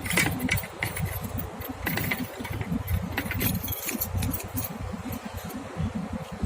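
Irregular light clicking and jingling, thickest in the first few seconds, over a choppy low rumble.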